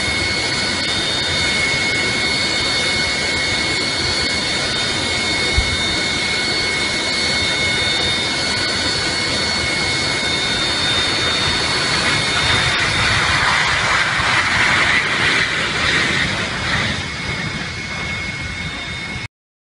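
Jet aircraft engines running: a loud, steady rushing noise with a high whine on top, swelling between about twelve and seventeen seconds. There is one brief knock near six seconds, and the sound cuts off abruptly near the end.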